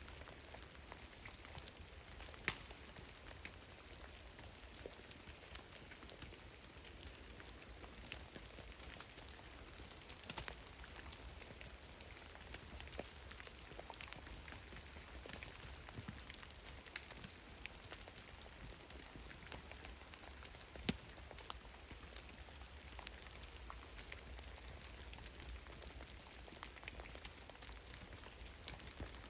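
Meltwater drops falling steadily from melting snow in trees, many small patters with a few louder single drops now and then.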